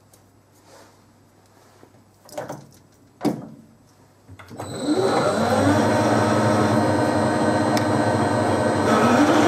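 A few light knocks and clunks, then about four seconds in a metalworking lathe starts up. Its spindle winds up to speed within about a second and runs steadily with a motor whine.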